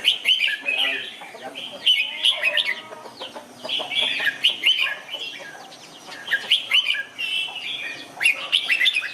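Red-whiskered bulbul singing: short phrases of quick rising and falling whistled notes, repeated about every two seconds.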